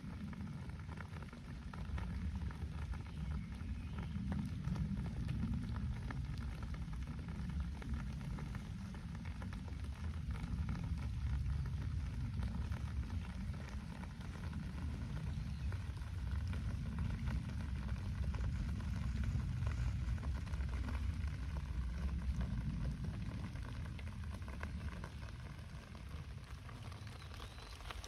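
Steady rain falling, with a low rumble underneath that swells and fades every few seconds.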